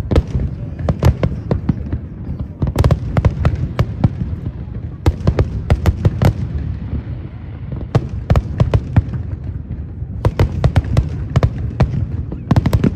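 Fireworks display: aerial shells bursting in rapid clusters of sharp cracks and bangs, one cluster every two to three seconds, over a continuous deep rumble.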